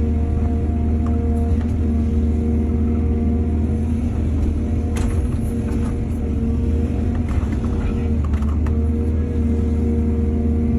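Heavy diesel engine of earthmoving machinery running steadily with a deep hum, with a few short clanks about halfway through and again a little later.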